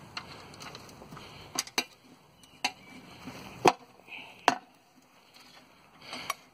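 Several separate sharp knocks and clicks, irregularly spaced over a few seconds, the loudest about halfway through.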